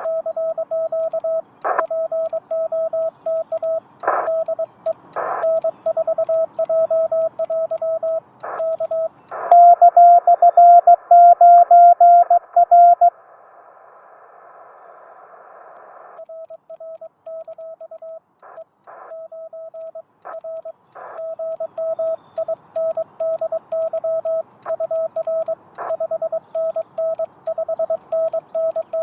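Morse code (CW) from a Yaesu FT-891 ham radio transceiver: a single steady tone keyed in dots and dashes over receiver hiss, with scattered static clicks. About a third of the way in, a louder, slightly higher-pitched tone sends for a few seconds, followed by a few seconds of hiss alone before the keying resumes.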